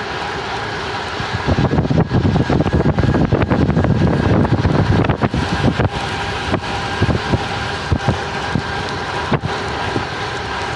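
Gravel bike riding noise: wind on the microphone over tyres rolling on a rough, wet trail, with frequent short knocks and rattles from bumps.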